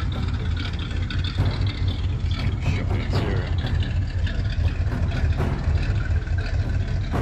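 AC Cobra 427's engine idling through its side exhaust pipes, a steady deep throb.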